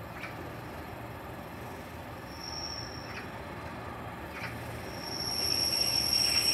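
A Class 143 Pacer diesel railbus approaching the platform, its wheels giving a high-pitched squeal briefly a couple of seconds in and then steadily from about five seconds in as the train grows louder.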